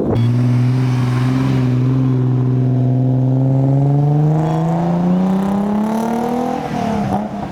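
A car engine under acceleration, its pitch climbing steadily for about six seconds, then breaking and dropping at a gear change near the end.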